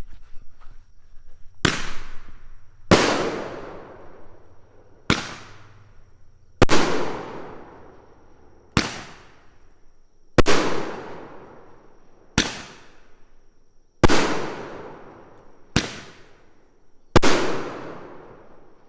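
Roman candle firing five shots, each a light launch pop followed about a second and a half later by a much louder bang as the shot bursts, each bang trailing off in echo.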